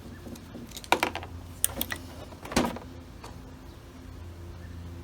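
A few sharp clicks and knocks from metal carburettor parts and tools being handled on the bench, over a steady low hum.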